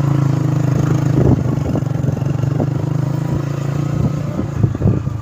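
Motorcycle engine running steadily on the move, with a few short knocks and rattles over it.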